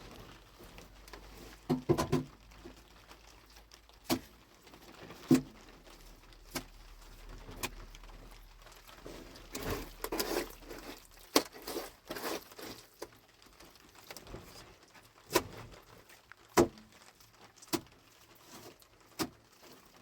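Scattered sharp knocks and clicks of objects being handled, about a dozen spread irregularly, with brief rustling about two seconds in and again around ten seconds in.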